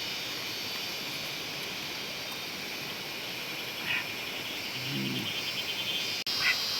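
Rainforest ambience: a steady high insect drone, with a short chirp near the middle, a brief low animal call a second later, and another chirp near the end.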